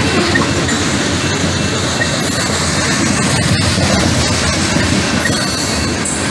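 BNSF freight train's covered hopper cars rolling past close by: a loud, steady rumble and clatter of steel wheels on the rails.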